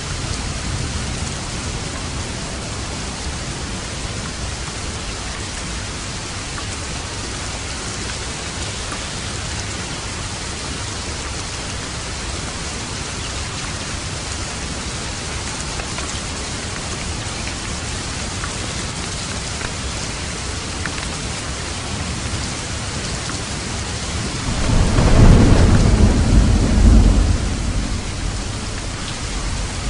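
Steady heavy rain drumming on a roof, with a thunderclap rumbling in about three-quarters of the way through, loudest for a couple of seconds and then rolling away.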